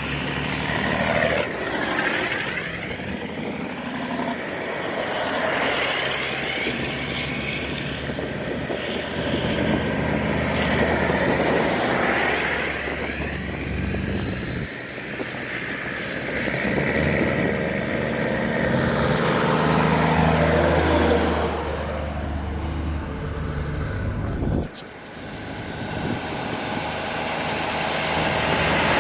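Truck engines running as several trucks drive past one after another, the sound swelling and fading with each pass. About three-quarters of the way through the sound drops off abruptly, then builds up again.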